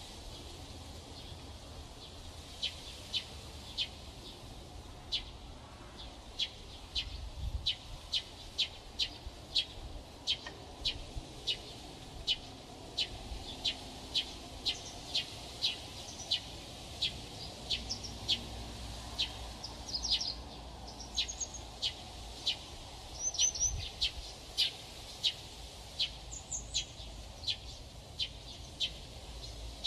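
A bird repeating a short, high call note, sparsely at first and then about twice a second. A few higher chirps from other birds come in about two-thirds of the way through.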